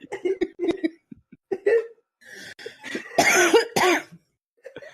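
A person coughing in a run of short bursts, the loudest about three seconds in, short of breath after a fit of laughter.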